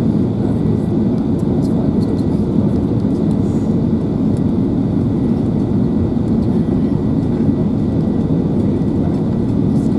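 Steady cabin rumble inside an Airbus A380 on final approach: airflow and engine noise heard through the cabin, with a faint high steady whine above it.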